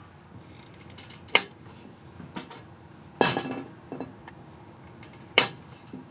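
Metal camp cookware and utensils being handled: about five separate sharp clinks and knocks, one of them ringing briefly.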